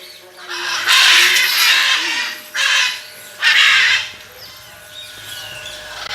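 Parrots squawking: three harsh, screeching calls, the first about a second in and lasting about a second, then two shorter ones, followed by fainter chirps.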